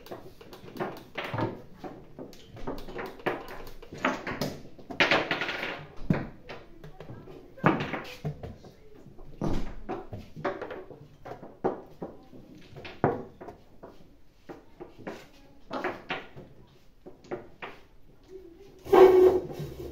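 Irregular sharp clicks and knocks of chess pieces being set down and chess clock buttons being pressed during blitz play, with indistinct voices in the room and a louder burst near the end.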